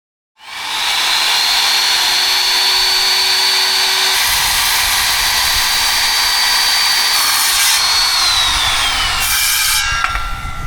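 Chainsaw running at full speed through a cut in a tree, with a steady high whine that winds down near the end.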